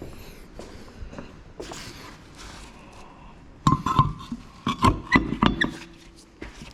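A quick run of sharp metallic clinks and knocks, some ringing briefly, starting a little past halfway and lasting about two seconds. These are metal tools and brake parts being handled during a brake pad job.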